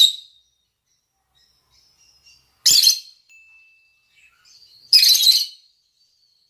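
Lovebirds giving loud, shrill mating calls: three calls about two and a half seconds apart, the last one longest, with faint chirps between.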